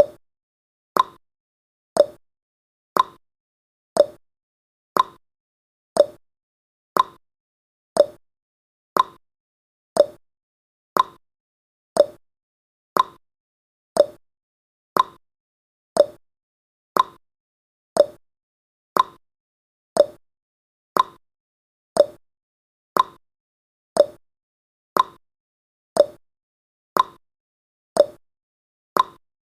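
Clock-style ticking sound effect of a countdown timer: one short tick every second, alternating higher and lower in pitch like a tick-tock.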